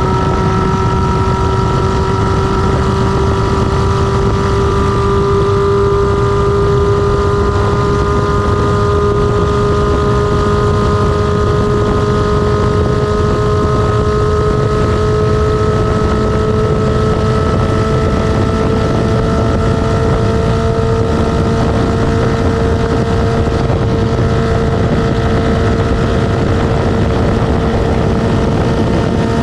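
Kawasaki ZR-7's air-cooled inline-four engine running without its exhaust muffler, a loud steady drone under way with its pitch rising slowly, and wind rushing on the microphone underneath.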